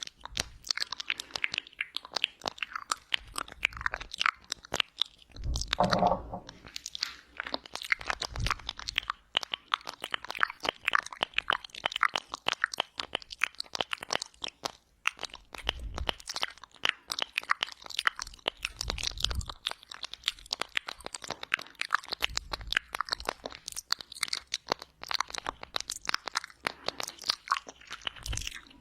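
Close-miked ASMR wet mouth sounds (ear eating): a continuous, rapid stream of lip smacks, tongue clicks and saliva pops.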